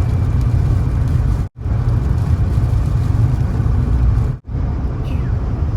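Steady low road and engine rumble inside a car driving on a highway, cut by two brief silent dropouts, the first about a second and a half in and the second near four and a half seconds.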